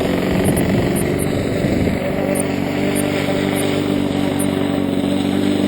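Radio-control model aircraft engine running steadily at a constant pitch, with wind rumbling on the microphone during the first couple of seconds.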